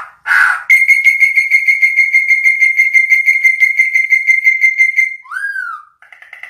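A bird calling: a short harsh note, then a long rapid trill of whistled notes on one high pitch lasting about four seconds, ending in a single curved whistle that rises and falls.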